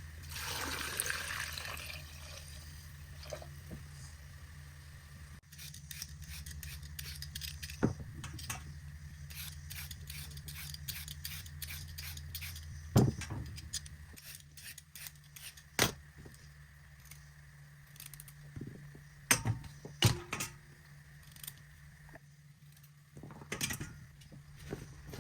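Kitchen handling sounds: scattered clicks and knocks of utensils and dishes, a few of them sharp and loud, over a steady low hum, with a short rush of noise at the start.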